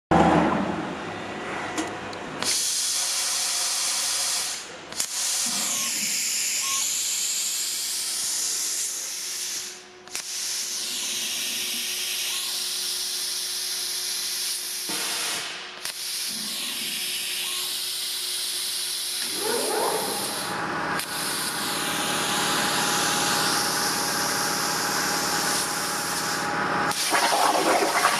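Air plasma arc cutting 4 mm steel at 65 A: a loud steady hiss that breaks off for a moment about every five seconds as the arc goes out between cuts and restarts on the next pierce. A machine whine rises in pitch about twenty seconds in and again near the end.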